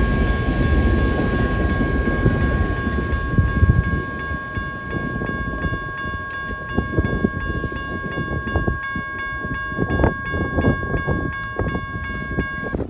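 A passing train: a heavy low rumble that eases after about four seconds into the repeated clack of wheels over rail joints. A steady high tone runs through it and stops just before the end, and from about four seconds in a higher ringing tone repeats quickly and evenly.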